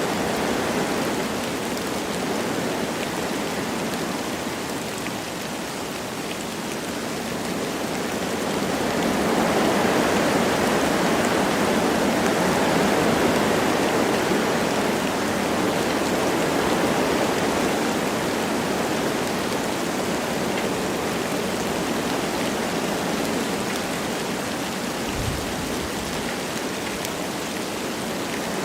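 Wind blowing through forest trees with light rain falling, a steady rushing hiss that swells about a third of the way in and eases again. A brief low thump sounds near the end.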